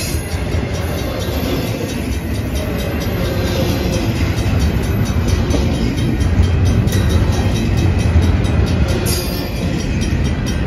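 Double-stack intermodal freight cars rolling past close by: a steady heavy rumble of steel wheels on rail. A couple of sharp clanks come near the end.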